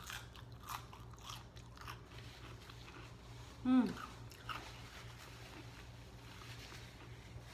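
Close-up eating sounds: chewing and wet mouth clicks, including fingers being licked at the start. About halfway through there is one short hummed vocal sound, and a steady low hum runs underneath.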